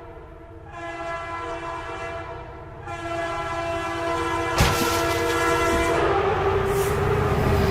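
A vehicle horn held in one long, steady blast over a low rumble, with a sharp knock about four and a half seconds in.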